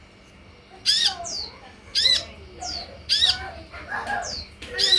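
Sunbird calling: four loud, sharp, high call notes about a second apart, some followed by a short falling whistle, with softer twittering between them.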